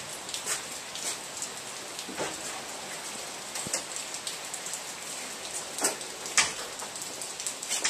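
Steady rain falling, with scattered louder drops tapping close by at irregular moments.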